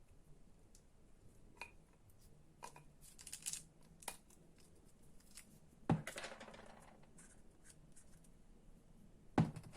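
Handling of small motor parts: scattered clicks and scraping, then a sharp knock with a brief ringing tail about six seconds in, and two more knocks close together near the end.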